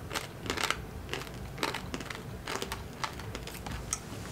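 Crunching of crust-coated Maní Moto peanuts being chewed: scattered crisp clicks and crackles at an uneven pace.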